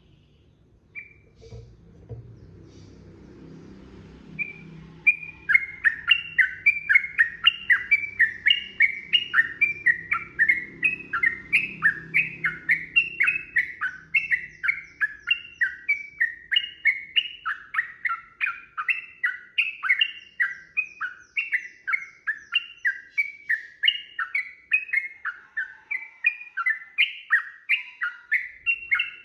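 Yellow-vented bulbul (trucukan) singing a long, unbroken run of quick repeated notes, about three a second, starting about five seconds in after a faint low rumble.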